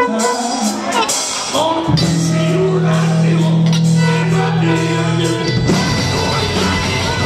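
Live blues-rockabilly band playing loudly with a singer's voice over the instruments. A low note holds from about two seconds in until past the middle, then the band moves on.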